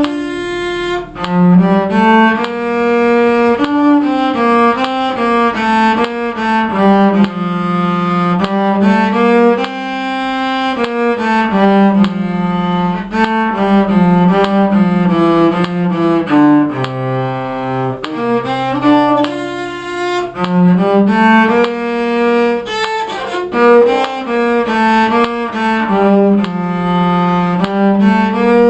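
Solo cello playing a slow melody in compound time, one bowed note after another, with a dip to a low held note about two-thirds of the way through.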